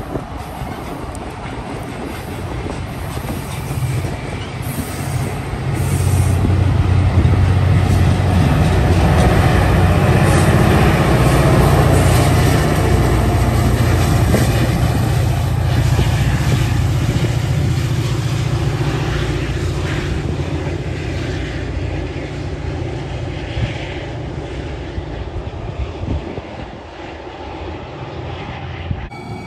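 Caltrain commuter train passing close by: bilevel gallery cars rolling past with clattering wheels, then the diesel locomotive at the end of the train going by with a low engine drone. The sound swells a few seconds in, is loudest near the middle and slowly fades.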